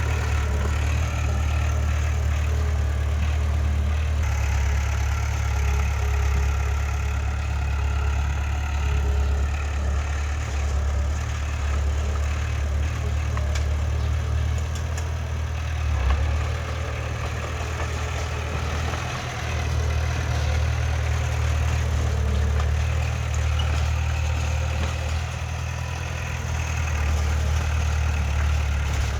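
Diesel engine of heavy earthmoving machinery running steadily, with a deep low hum and some clatter above it, easing off briefly a few times.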